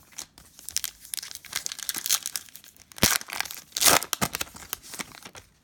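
Plastic foil wrapper of a trading card pack being torn open and crinkled, a run of crackling rustles with two louder bursts about three and four seconds in.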